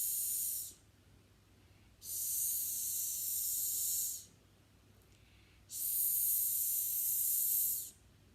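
A woman's voice stretching out the 's' phonics sound, a long high-pitched "sssss" hiss, given three times: the tail of one ends within the first second, then two full ones of about two seconds each with a short pause between.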